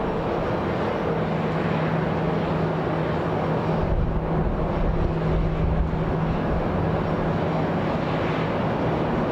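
Boeing 737-800's CFM56 jet engines at takeoff power during its departure from the runway: a steady jet roar with a low hum running under it. The deep rumble swells about four seconds in.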